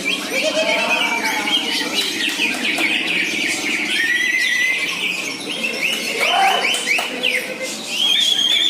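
Several caged cucak ijo (green leafbirds) singing at once in fast, varied phrases, full of rapid trills, chattering and short gliding whistles, without a break.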